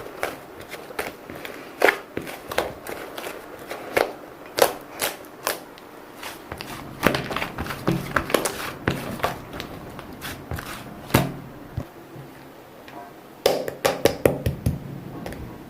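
Irregular sharp clicks and taps, as of small objects being handled and set down, with short pauses between runs of taps.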